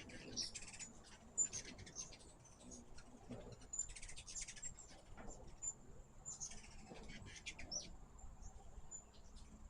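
Hummingbirds chattering at a feeder in repeated short bursts of high, squeaky chip notes.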